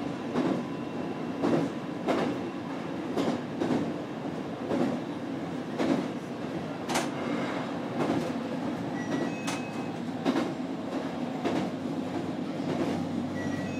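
Electric train running along the track, heard from inside the car: a steady rumble of wheels and running gear with sharp clacks about twice a second as the wheels cross rail joints.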